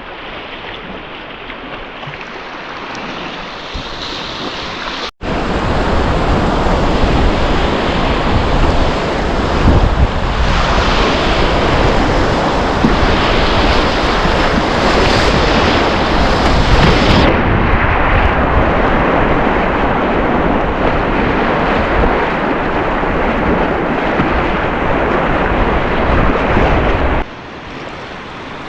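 Rushing river water heard from a kayak. A quieter current at first gives way, about five seconds in, to much louder whitewater noise with wind rumbling on the microphone, which drops back to quieter flowing water near the end.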